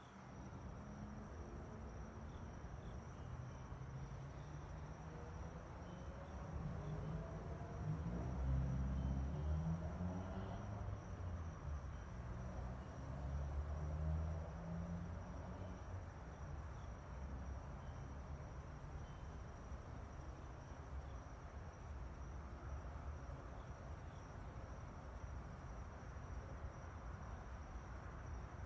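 Bees buzzing around sunflowers; the low wingbeat buzz grows louder from about eight to fifteen seconds in as a bee passes close. A steady high trill runs underneath.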